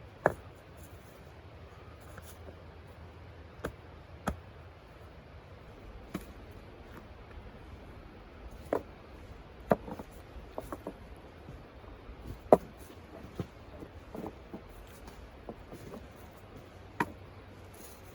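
Irregular light clicks and knocks, about a dozen, sharpest near the start and about twelve seconds in, over a faint low hum.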